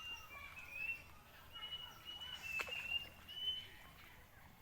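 Birds calling: a run of short, clear whistled notes, with one sharp click a little past halfway.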